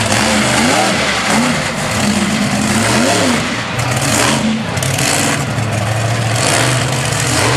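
Monster truck engine revving up and down several times, then running at a steadier pitch.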